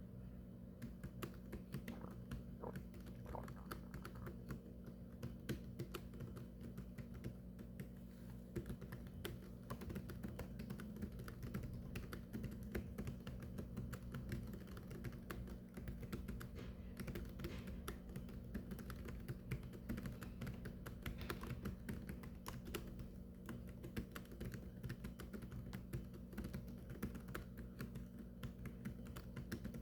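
Fast, continuous typing on a keyboard: a dense, irregular stream of key clicks over a steady low hum.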